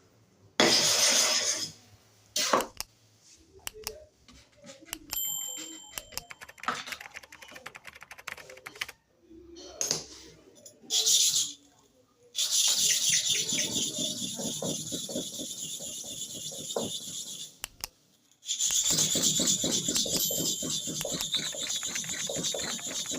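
Clipper blade being rubbed or scrubbed clean, heard as a few short scrapes and then two long stretches of steady rubbing, the second starting after a brief pause about eighteen seconds in.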